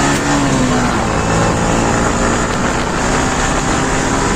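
Motorcycle engine running steadily while riding, under heavy wind noise on the microphone.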